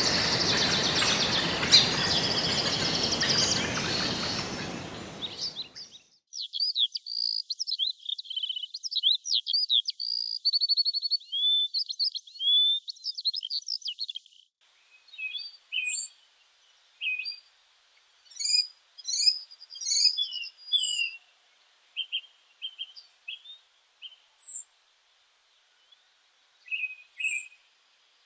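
Several songbirds singing and chirping with quick rising and falling whistles and trills. For the first few seconds they sing over a steady rushing background that fades out about five seconds in. After that the birdsong goes on alone against silence, in sparser, separate calls in the second half.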